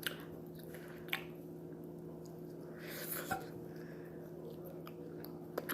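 A person chewing food, with a few short mouth or utensil clicks and a brief noisy smack about three seconds in, over a steady low hum.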